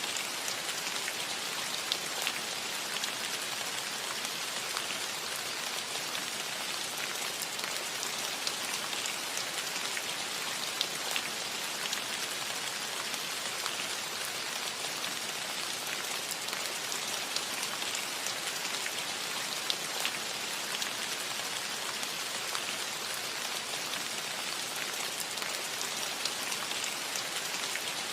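Steady rain falling on a roof: a constant hiss with many small, separate drop ticks.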